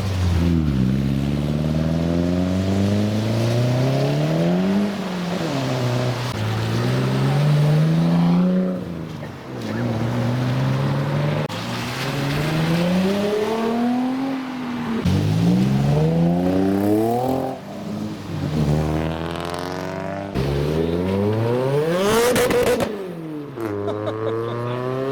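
Car engines revving hard as cars accelerate away, the pitch climbing and then dropping at each gear change, over and over. Near the end one car passes close by.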